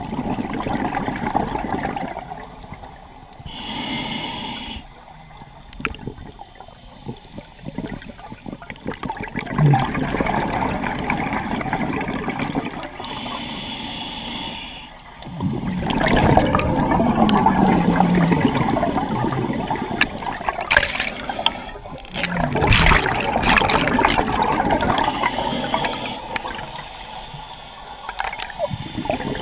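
A scuba diver breathing through a regulator underwater: a hissing inhalation about 4 seconds in and again about 14 seconds in, each followed by a long rush of exhaled bubbles gurgling past the mask.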